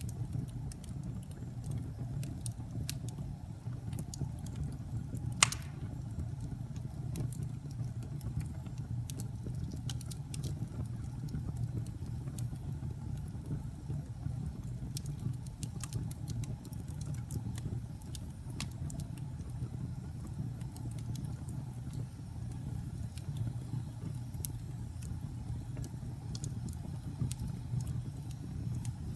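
Wood fire burning in a fireplace: a steady low rumble of flames with scattered crackles and one loud pop about five seconds in.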